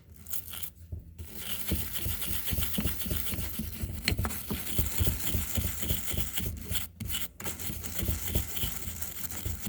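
A small brush scrubbing espresso machine parts clean of coffee residue, in quick back-and-forth strokes. The strokes start about a second in and pause briefly twice near the seven-second mark.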